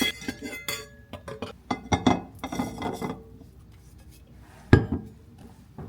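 Cutlery and dishware clinking: scattered light clinks and knocks for about three seconds, then a single sharp knock near the end.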